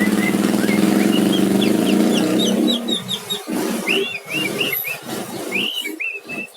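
White-rumped shama (murai batu) singing a string of quick, sharp whistled notes and swooping phrases. A motor engine runs steadily underneath for the first half and fades out about three seconds in.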